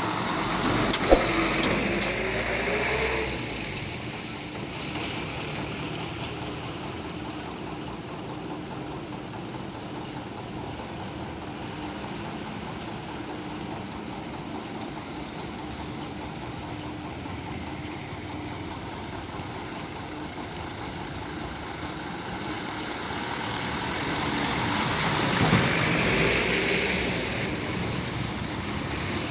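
Loaded truck engines on a road: an engine revs up with rising pitch in the first few seconds, then a steady engine hum, and a vehicle passes louder about twenty-five seconds in.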